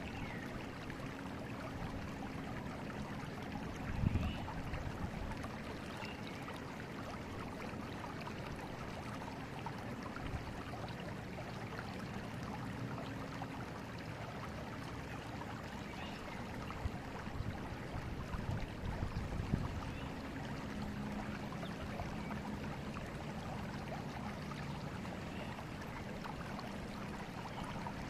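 Forest river flowing, a steady rush of water. A few brief louder low bumps come about four seconds in and again between about seventeen and twenty seconds.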